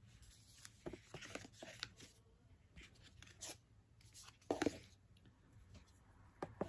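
Faint handling noise of a small cardboard gift box being closed: scattered light clicks and rustles of card, with one louder scrape about four and a half seconds in.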